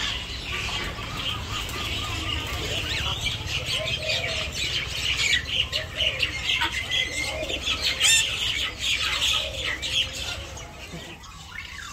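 Caged birds chirping and peeping in a constant, overlapping chorus, with one louder call about eight seconds in, over a steady low rumble.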